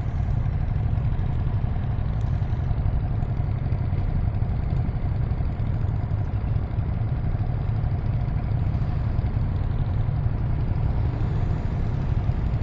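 Ducati Streetfighter V2S's L-twin engine running steadily at low revs, with no revving.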